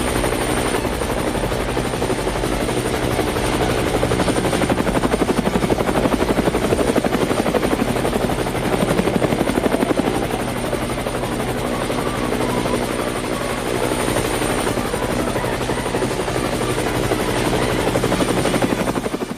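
Helicopter-type rotor sound: a steady, fast, even chop over a buzzing hum, fading down near the end.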